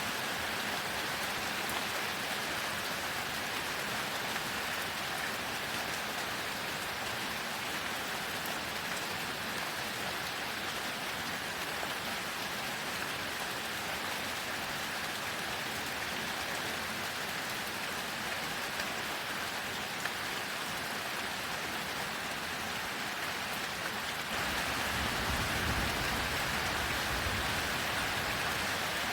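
Heavy rain falling steadily. Near the end a low rumble of thunder rolls in.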